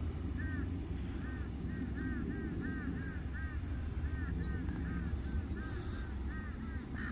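A bird calling repeatedly in short, arched chirps, about two to three a second in runs, over a steady low rumble.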